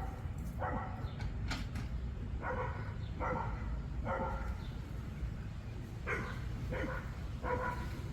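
A dog barking over and over, about seven barks spaced roughly a second apart, with a few sharp clicks about one and a half seconds in.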